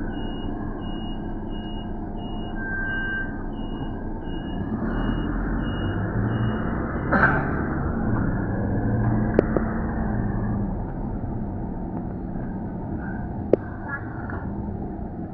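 City street traffic: a motor vehicle passes with a low engine rumble that swells from about five seconds in and fades after ten. Over the first half an electronic beep repeats about twice a second, then stops, and a few sharp clicks sound.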